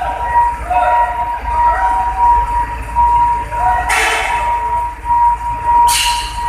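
Heavy Hino truck's diesel engine rumbling, with two short bursts of hissing air, about four and six seconds in, over a steady high tone.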